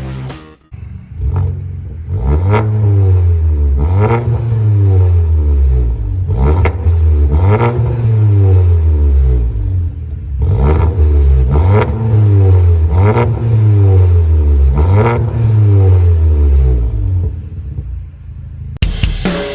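Volkswagen Golf GTI Mk7's turbocharged 2.0-litre four-cylinder engine, breathing through a full aftermarket exhaust with a high-flow performance muffler, being revved over and over: each blip climbs in pitch and falls back to idle, about eight times, then settles to idle near the end.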